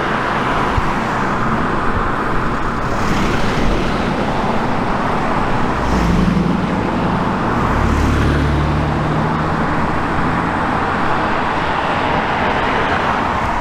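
Steady road traffic noise, with a vehicle's engine rising about six seconds in and fading away by about ten seconds.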